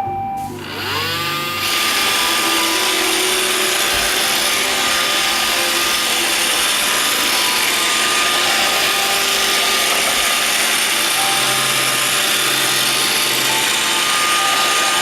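iRobot Roomba 560 robot vacuum starting a cleaning cycle. The last note of its start-up tune gives way to the vacuum motor and brushes spinning up with a rising whine over the first second or so. After that they run steadily.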